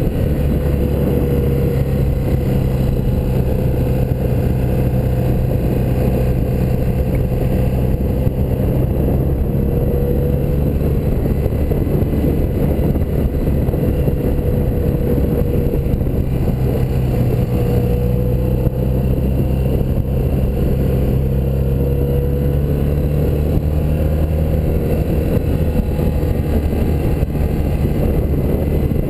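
1984 BMW R100RS motorcycle's air-cooled flat-twin boxer engine running at a fairly steady pace while riding, its pitch shifting only slightly.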